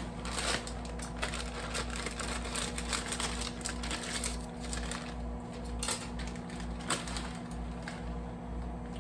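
Microwave oven running with a steady hum, overlaid by scattered clicks and rustling as kitchen utensils are handled.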